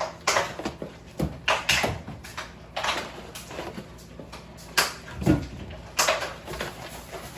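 Groceries and containers being handled and moved about: a string of short rustles and clunks.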